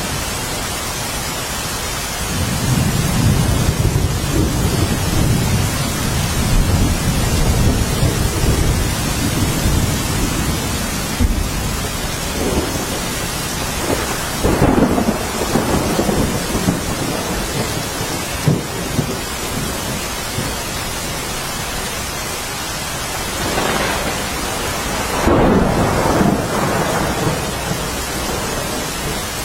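Steady rain falling during a thunderstorm, with a long low rumble of thunder early on and two louder swells of thunder later, the second near the end.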